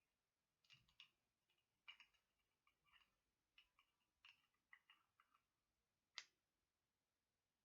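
Light, irregular tapping and clicking on a half-opened lip balm container, with one sharper click about six seconds in.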